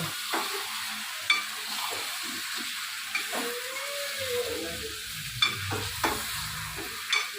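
Chicken pieces frying in hot oil with golden-brown onions, sizzling steadily, while a spoon stirs them and knocks and scrapes against the pan every second or so.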